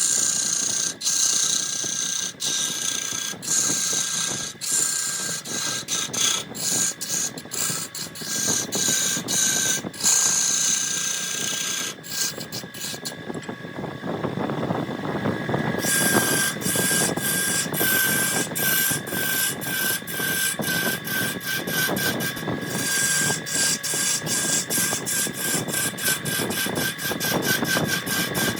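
Wood lathe running with a tool scraping and cutting a spinning jackfruit log: a steady motor whine under rough scraping noise, broken by many short sharp clicks and knocks.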